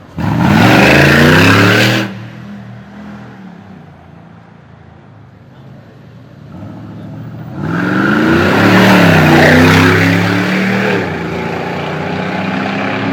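Mercedes-AMG G-Wagon engine revving hard twice: a sudden loud burst of rising revs at the start that drops away after about two seconds, then a second climbing acceleration from about seven seconds in that stays loud for a few seconds before easing off.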